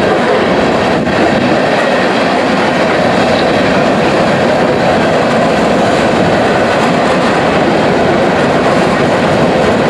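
Train rolling past, a steady, loud rumble and clatter of wheels on the rails.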